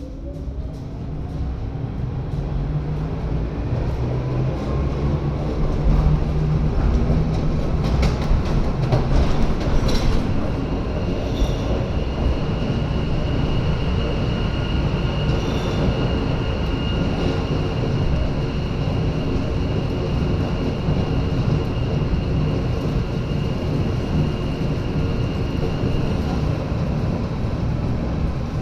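Lausanne–Ouchy cog-rail train climbing, heard on board. The running noise builds over the first few seconds with a rising motor whine as the train gathers speed. A few clicks come around eight to ten seconds in, and a steady high-pitched squeal runs from about ten seconds in until near the end.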